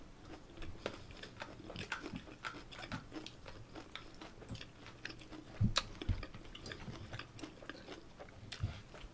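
A person chewing and biting bossam (boiled pork wraps) close to the microphone: many small, irregular wet clicks and crunches. Two low thumps come a little past the middle.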